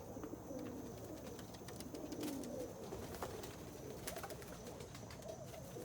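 Homing pigeons cooing in a loft, several birds' coos overlapping throughout, with scattered light clicks.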